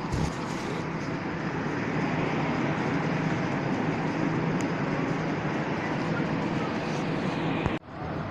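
Steady rumble and hum of a passenger train standing at the platform, its diesel locomotive idling. The sound cuts out sharply for a moment near the end.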